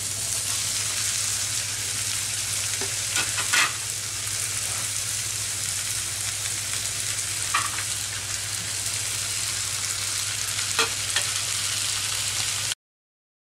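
Onions, potato cubes and green chillies frying in hot mustard oil in a nonstick pan, a steady sizzle, with a few light clicks along the way. The sizzle cuts off abruptly near the end.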